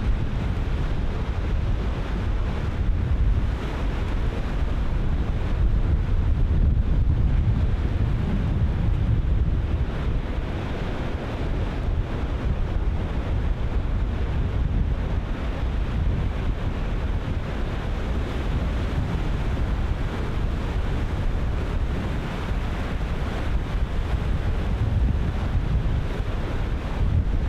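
Ocean surf breaking and washing in, mixed with wind buffeting the microphone as a heavy low rumble.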